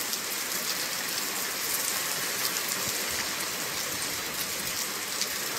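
Heavy thunderstorm rain falling on a street and pavement, a steady hiss of countless drops.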